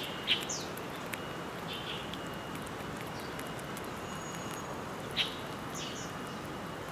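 Birds chirping: a few short, quick chirps sweeping downward, the loudest just after the start and about five seconds in, over a steady outdoor hiss with a few faint clicks.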